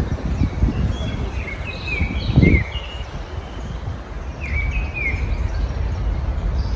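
Small garden birds chirping and twittering in short bursts of high notes, over a steady low background rumble that swells briefly about two and a half seconds in.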